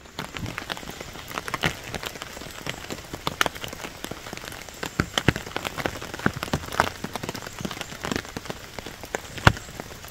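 Rain falling, with many separate close drops hitting irregularly over a steady patter, and one louder drop near the end.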